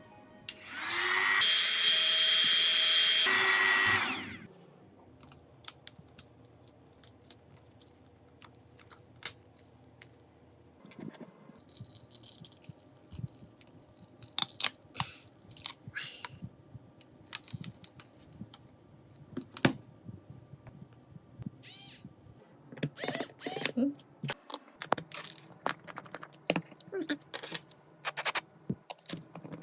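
A small electric tool runs loudly for about three seconds near the start with a steady whine, then stops; after that come scattered light clicks and taps of small tools on a phone.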